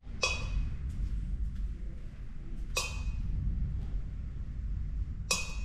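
Three ringing metallic clinks, about two and a half seconds apart, over a steady low rumble.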